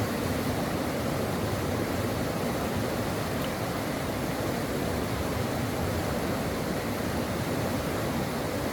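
Stream water running steadily over rocks: a continuous, even rushing with no breaks.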